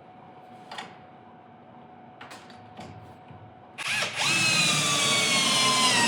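Power drill driving a lag screw into a garage door spring bracket, starting about four seconds in after a few light clicks; its motor whine falls slowly in pitch.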